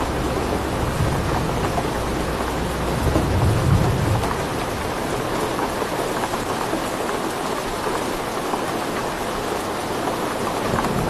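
Steady heavy rain with many small drop ticks, and a low roll of thunder that swells about three to four seconds in and then fades away.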